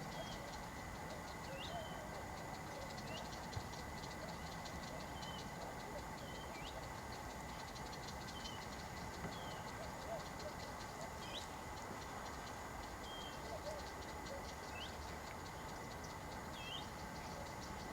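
Faint outdoor ambience: a steady hiss with a constant high thin tone, and short high chirps about once a second, like distant small birds.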